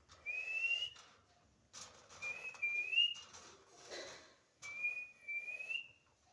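Three short whistles, each a single clear high note that rises slightly, about two seconds apart.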